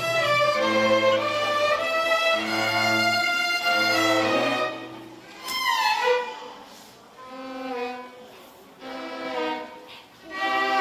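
A school orchestra plays, with violins leading over low strings. Full sustained chords last for about four and a half seconds, then a falling slide and quieter, separate phrases follow.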